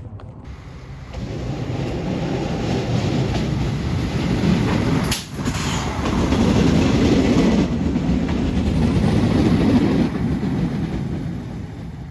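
A train rumbling past, building up over the first couple of seconds, loudest in the second half and fading near the end, with a sudden brief break about five seconds in.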